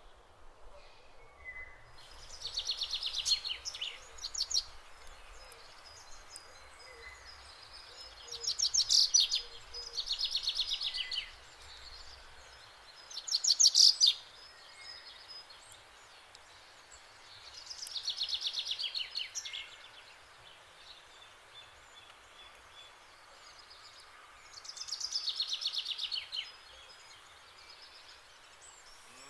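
A bird singing a short, rapid, high trill, repeated about six times a few seconds apart, over faint outdoor background noise.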